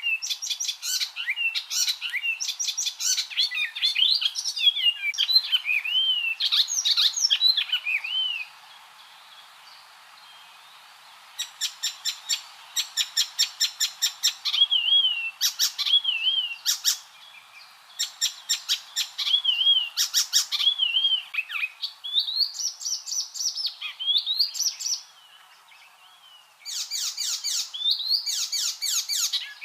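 Icterine warbler singing: a fast, varied song of rapid rattling note series mixed with high slurred whistles, in bursts broken by three short pauses.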